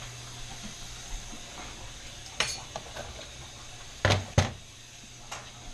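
Kitchen utensils and dishes being handled over a steady low hum: a clink about halfway, then two loud knocks in quick succession and a lighter one near the end.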